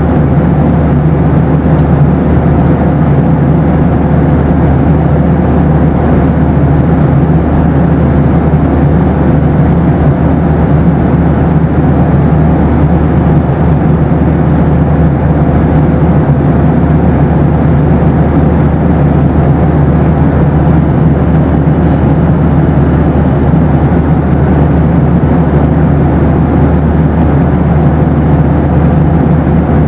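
Boeing 737 passenger-cabin noise in flight: a loud, steady drone of engines and airflow, heaviest in the low end, with a faint steady hum above it.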